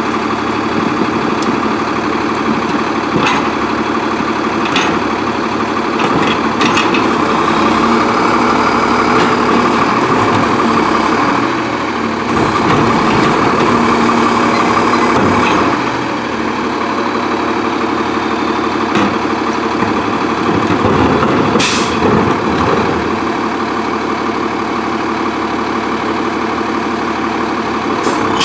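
Freightliner Condor garbage truck with an Amrep MSL side-loader body running steadily. A short hiss of air brakes comes about three quarters of the way through.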